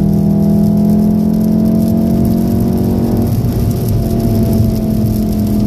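2014 Golf VII R's turbocharged 2.0-litre four-cylinder engine heard from inside the cabin, pulling hard as the car accelerates, its note rising slowly in pitch.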